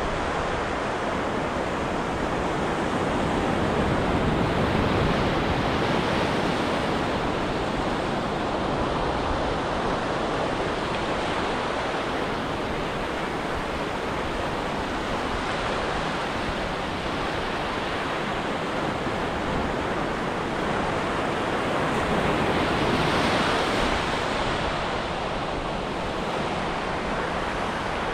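Ocean surf breaking on a beach: a steady rushing wash that swells louder a few seconds in and again near the end as bigger waves break.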